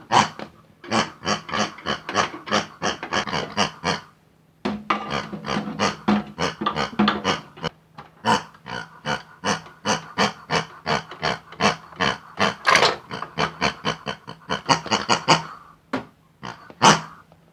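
Rapid pig oinks and grunts, about four or five a second, in two long runs with a short break about four seconds in, and one last oink near the end.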